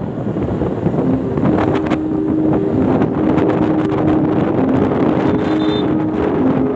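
Heavy wind buffeting the microphone on a moving motorcycle, a steady rushing noise. From about a second in, a simple tune of held notes plays over it.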